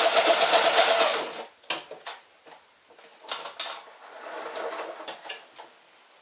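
Electric sewing machine running steadily as it sews a narrow zigzag stitch, stopping about a second in. After it, a few light clicks and knocks from handling.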